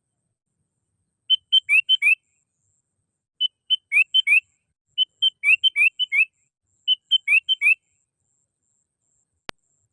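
Sooty-headed bulbul calling: four bursts of short, bubbly notes with quick rising slurs, spaced a little under two seconds apart, with dead silence between them. A faint click sounds near the end.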